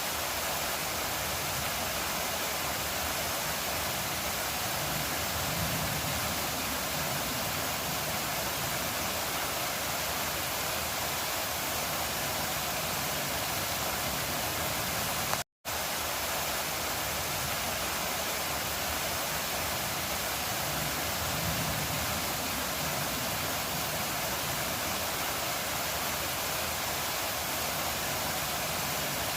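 Waterfall: the steady rushing roar of falling water, cutting out for a moment about halfway through.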